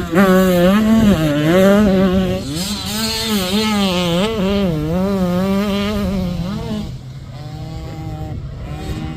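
Dirt bike engine revving up and down over and over as it is ridden close by, loudest for the first seven seconds or so, then falling back to a fainter, steadier engine drone.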